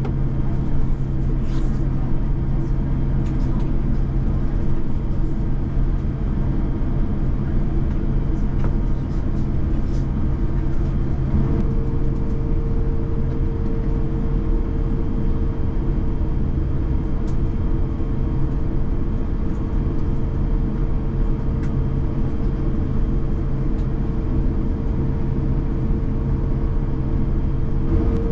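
Steady cabin noise inside an Airbus A350-1000 airliner: the low hum of its engines and air systems. A higher tone comes in about a third of the way through and starts to rise in pitch near the end.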